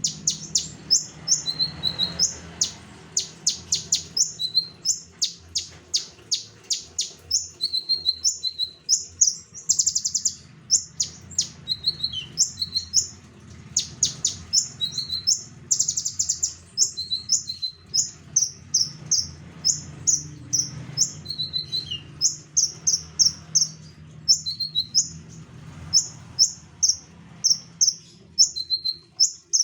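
A Konin songbird in full song: a continuous stream of short, high chirping notes, several a second, broken by quick rapid-fire runs of notes.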